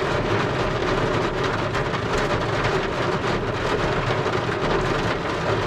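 Heavy rain falling: a steady, dense hiss full of fine drop ticks.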